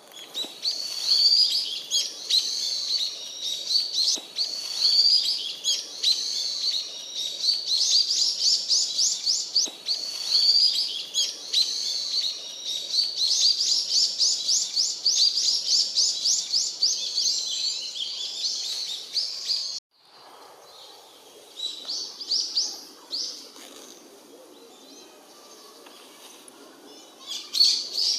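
Brown-eared bulbuls calling loudly and shrilly, over and over, with fast rattling runs of notes. About twenty seconds in the sound drops off abruptly, and after that only a few fainter calls come.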